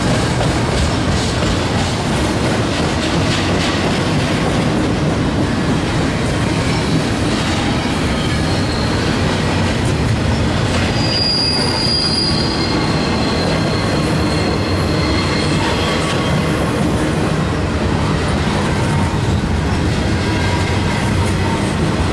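Freight train cars rolling past close by, with a steady rumble of wheels on rail. A brief high-pitched wheel squeal rings out about halfway through, and fainter squeals follow.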